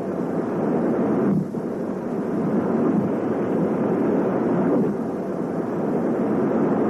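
Steady rumble of a car driving, road and engine noise without a clear engine note, with brief dips about a second and a half in and near five seconds.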